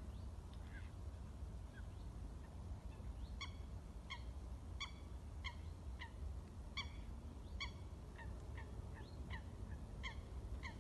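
Wild birds calling in open wetland: one bird gives a run of short, evenly spaced calls, about one every 0.7 seconds, starting about three seconds in, over scattered thin rising chirps from other birds. A steady low rumble sits underneath.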